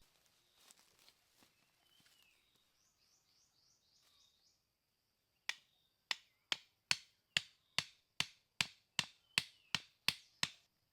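A steady run of about thirteen sharp knocks, two or three a second, starting about halfway in, like a tool striking wood during shelter building. Before that there is faint rustling and a few short bird chirps.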